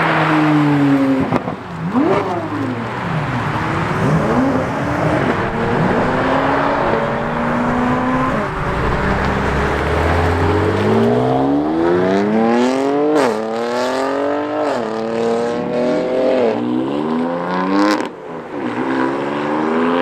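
Cars driving off and accelerating hard, engines revving with their pitch rising and falling. A deep rumble builds about halfway through, then an engine climbs through the gears with its pitch dropping back at each upshift.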